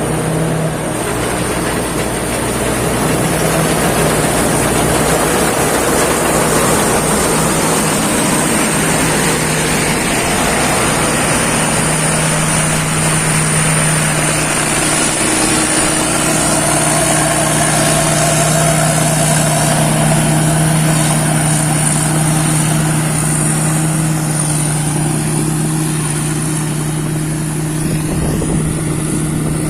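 Rice combine harvester running steadily under load, a loud even engine drone mixed with the rattle of its harvesting machinery and a thin high whine.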